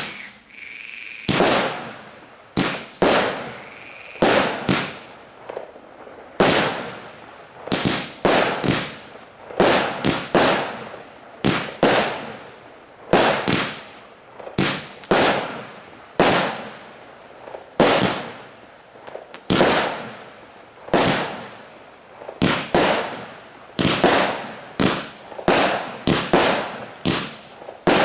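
A 100-shot firework battery (cake) firing: a long run of sharp shots, about one to two a second and often in close pairs, each with a brief fading crackle. A thin steady whistle sounds under the first few shots.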